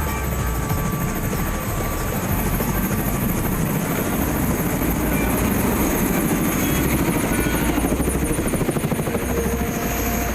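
Helicopter engine and rotor running steadily, a continuous roar with a fast, even pulsing of the rotor.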